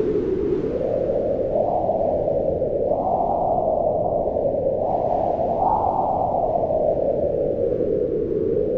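Strong wind howling in slow gusts, its pitch swelling up and sinking back every few seconds.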